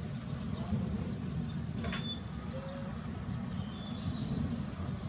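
Cricket chirping in a steady rhythm, about three short high chirps a second, over a constant low rumble, with a single click about two seconds in.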